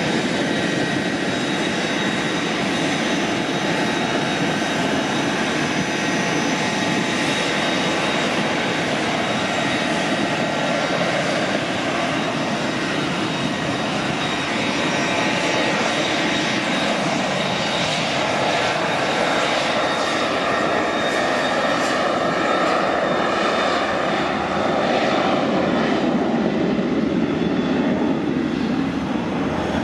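Turbofan engines of a twin-jet business aircraft running loud and steady, a high whine over a broad roar that swells a little near the end.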